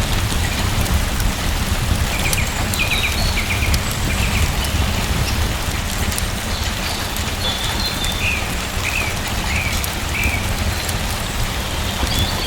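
Steady rain falling, with a deep rumble underneath and a run of short high chirps in the middle.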